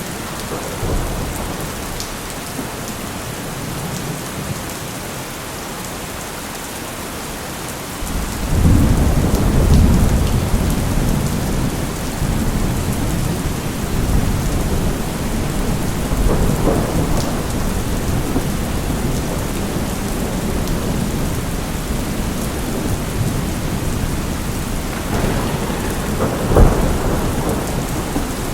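Steady heavy rain with thunder: a deep rumble breaks in about eight seconds in and rolls on for several seconds, more rumbles follow, and a sharp thunderclap cracks near the end.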